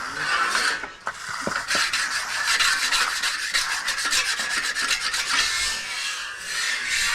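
Steel finishing trowel scraping and rubbing over the surface of fresh concrete in repeated strokes, with a quick run of short strokes in the middle.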